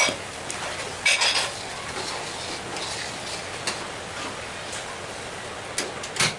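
Utensils clinking and scraping against cookware while noodles are being cooked: a sharp clink at the start, a cluster of clinks about a second in, scattered light ticks, and two more clinks near the end, all over a steady hiss.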